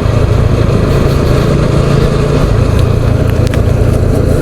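Motorcycle engine running steadily while the bike is ridden, a continuous low hum.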